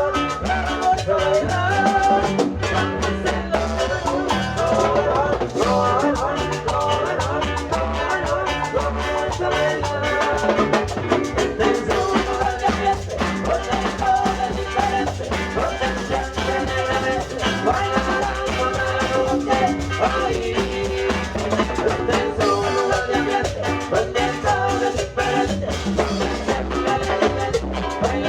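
A live Latin dance band plays an instrumental passage: a drum kit and percussion keep a steady beat under melodic instruments, with no singing.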